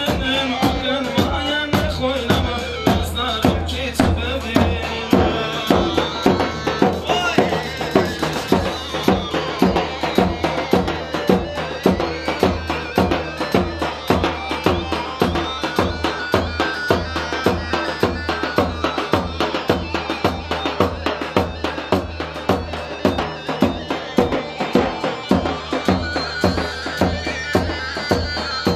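Instrumental Turkish halay dance music: an electronic keyboard plays a reedy lead melody over a steady, driving drum beat.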